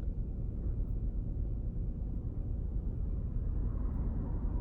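A steady low rumble with no distinct events, the even background hum that also runs under the narration either side.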